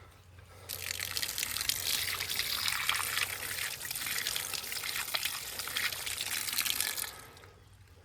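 Running water splashing steadily; it comes in about a second in and falls away about a second before the end.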